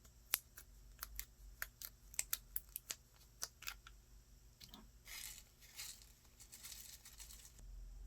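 Slime being pressed and stretched by hand, giving a quick run of sharp crisp pops and clicks, then a softer crackly rustle for a couple of seconds from about five seconds in.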